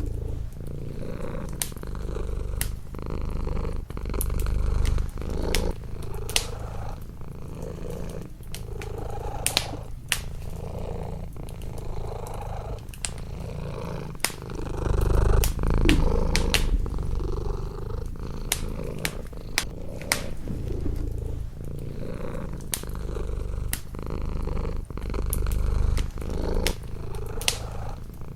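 A domestic cat purring close up, a low rumble that swells and eases with its breathing, while a wood fire crackles with frequent sharp pops.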